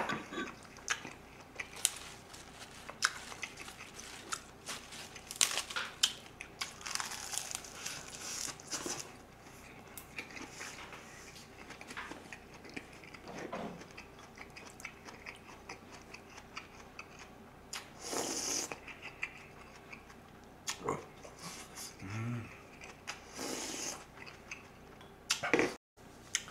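Close-miked chewing and lip-smacking of a person eating, with short sharp mouth clicks and smacks scattered unevenly throughout.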